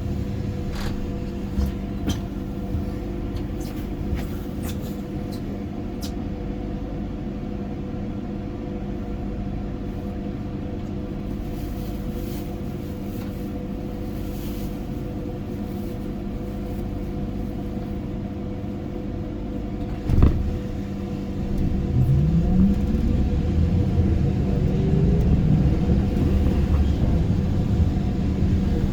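ZiU-682G trolleybus heard from inside: a steady electrical hum with a few light clicks, a single knock about twenty seconds in, then the traction motor whine rising steadily in pitch as the trolleybus accelerates.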